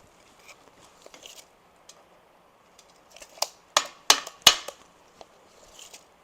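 Steel parts being handled on a welding table: faint shuffling, then a quick run of four or five sharp metal clinks and knocks, some with a brief ring, a little over three seconds in.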